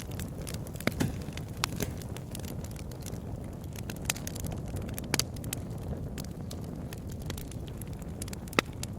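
Wood bonfire burning, with irregular sharp crackles and pops from the wood over a steady low noise of the fire; the loudest pops come about a second in, around the middle and near the end.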